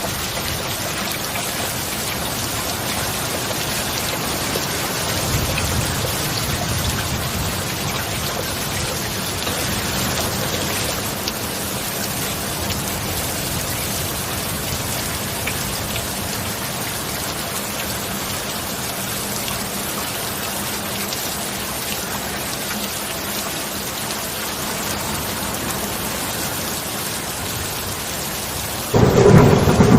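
Steady heavy rain, an even hiss of falling drops. Near the end a loud clap of thunder breaks in suddenly and rumbles on.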